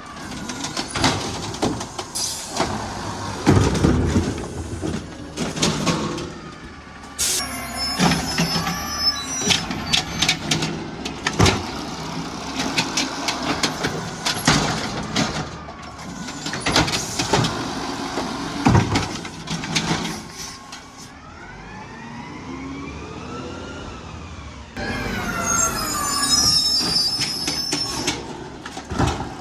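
Garbage truck at work: a run of clanks and bangs from metal and plastic knocking, then the engine revving up and back down twice in the last third.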